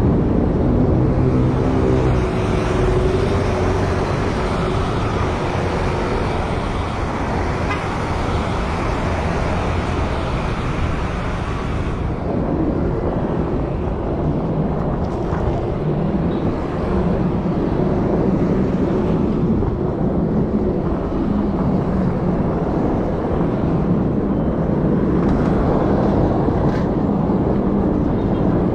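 A motor vehicle's engine running steadily, with a pitched drone under a continuous noise; about twelve seconds in the higher hiss drops away while the engine sound goes on.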